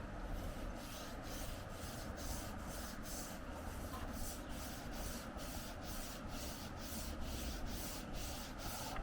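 Watercolor pencil scribbling back and forth on Yupo synthetic paper, a quick even rhythm of nearly three strokes a second that starts about a second in. A low wind rumble lies underneath.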